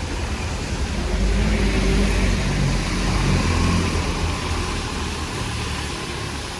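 A motor vehicle's engine passing close on a rainy street, its low hum growing louder about a second in and easing off toward the end, over a steady hiss of rain.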